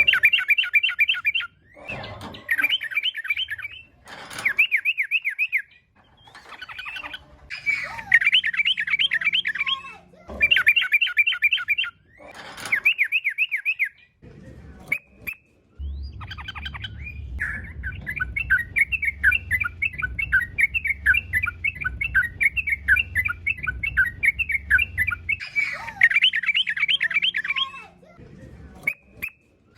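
Sooty-headed bulbul (trucukan) singing in fast, chattering phrases of about one to two seconds each, with one long unbroken run of about nine seconds in the middle.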